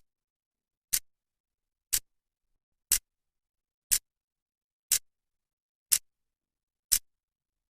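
Clock second hand ticking, one sharp dry tick each second with silence between.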